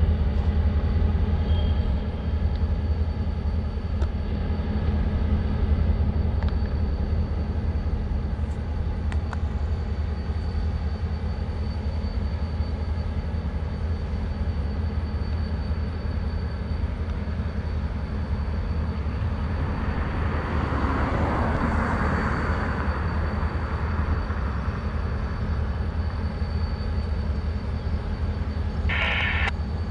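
Freight train running with a steady low rumble. A swell of rushing noise comes about two-thirds of the way through, and a short higher sound near the end.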